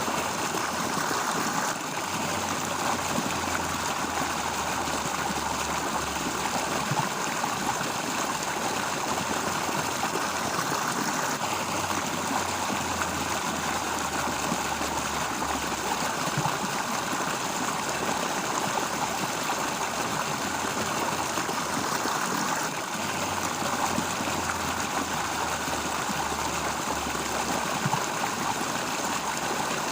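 Stream water flowing and rushing steadily. A faint low hum comes and goes underneath.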